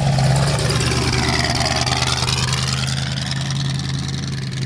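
A car engine running steadily at low speed with a deep, even note that eases off slightly toward the end.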